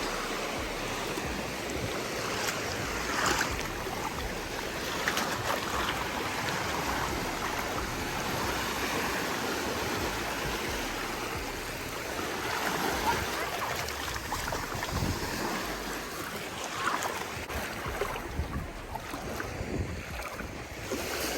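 Ocean surf washing onto the beach in a steady rush of water noise.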